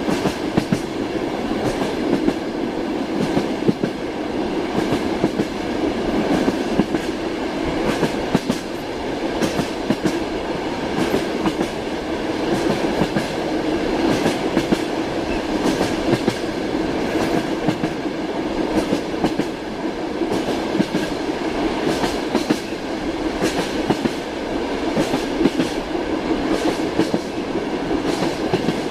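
Passenger train car heard from inside a compartment: a steady rolling rumble with irregular clickety-clack of the wheels over rail joints.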